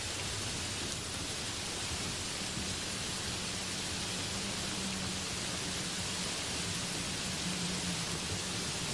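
Heavy rain pouring steadily on banana leaves and trees, a dense even hiss.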